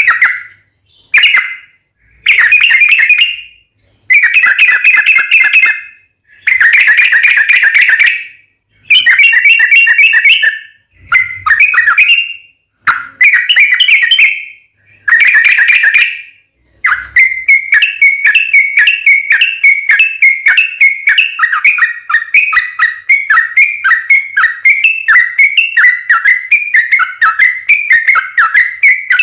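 Yellow-vented bulbul (trucukan) song: loud, bubbling whistled phrases of a second or two, with short pauses between them. From a little past halfway, the phrases give way to a long unbroken run of rapid notes, the "long ropel" chatter used as a lure.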